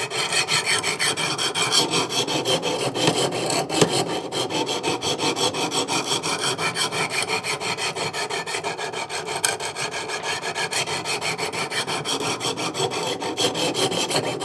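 Coarse sharpening stones of a Wicked Edge Go guided sharpener rasping along the edge of an S35VN steel knife blade in quick, even, repeated strokes, raising a toothy edge at the coarse-grit stage before the finer 600 grit. The scraping stops suddenly at the very end.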